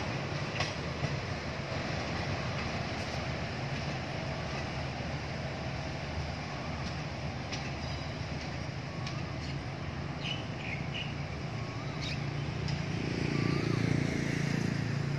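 Passenger train rolling away along the track: a steady rumble of wheels on rails with a few faint clicks. A low droning hum swells near the end.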